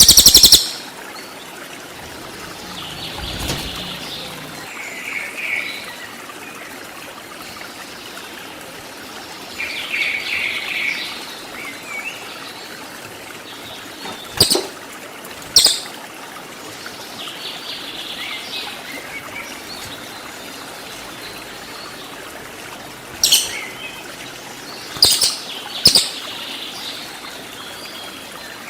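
Cililin songbird calling over a steady background of running water. It gives short chirping phrases and a few sharp, loud 'tembakan' call notes, the loudest a burst right at the start, with single sharp notes about halfway through and a cluster a few seconds before the end.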